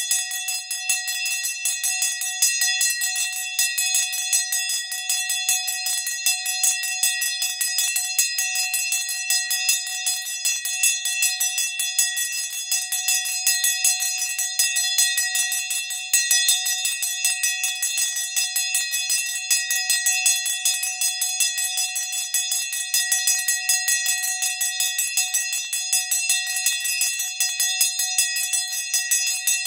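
A bell rung continuously with rapid, even strokes of its clapper, keeping up a steady ringing tone.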